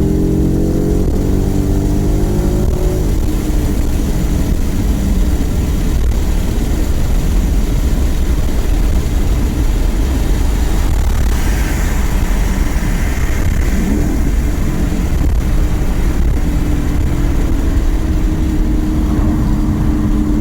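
Car engine and road noise while driving: the engine note rises as the car accelerates over the first few seconds, then settles into a steady drone.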